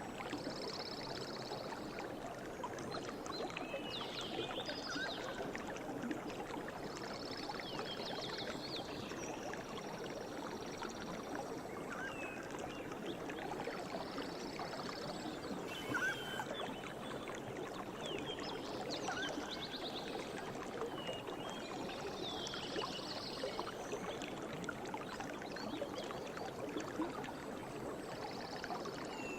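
River water flowing steadily, with birds singing above it: short, fast trills and chirps repeating every few seconds. A single sharp click about halfway through.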